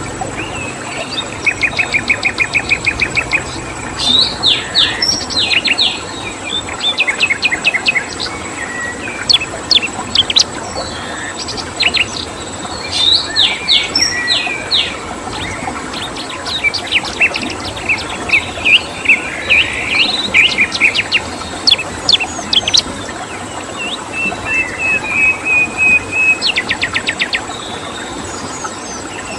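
Several songbirds singing in short phrases of rapid chirping trills and whistled notes, one after another, over a steady rushing background of flowing stream water. A thin, steady high tone sits behind them.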